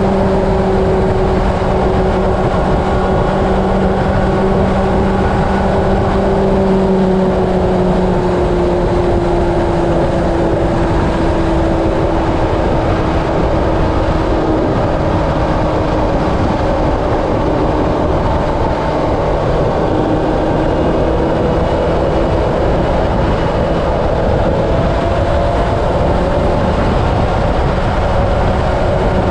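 Honda CB750 inline-four running at highway speed, its engine note held steady and then easing slightly lower about a third of the way in, under a constant rush of wind and road noise on the helmet or bike-mounted camera's microphone.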